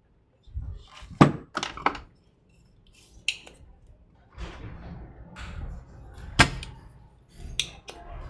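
Sharp clicks and knocks of tools and parts being handled on a workbench, about seven spread through, with low rumbling handling noise between them.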